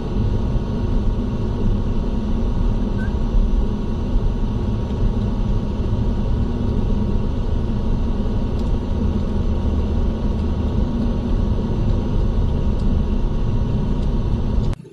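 Passenger train with LHB coaches running: a steady, loud rumble with a faint steady whine above it, which cuts off abruptly near the end.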